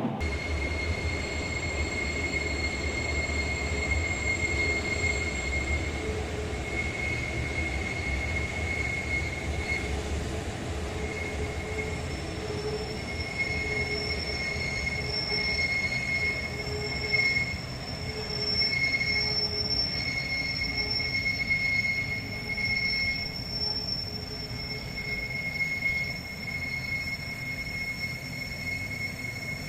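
Wheels of a Bernina Railway train squealing against the rails on the tight curve of the spiral. The high, steady squeal comes and goes over a low rumble of the running train, and the rumble drops away about ten seconds in.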